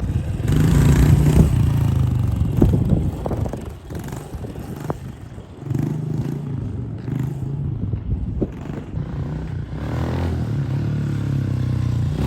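110cc pit bike's single-cylinder four-stroke engine revving hard for a wheelie, with some clatter; the engine drops away about four seconds in, then picks up again near six seconds and runs on steadily.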